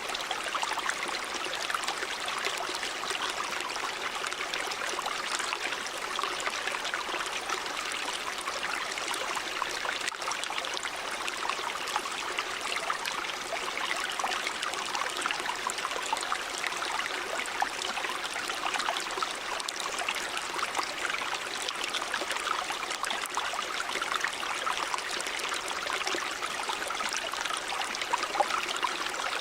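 River water running: a steady, even rush with fine splashing.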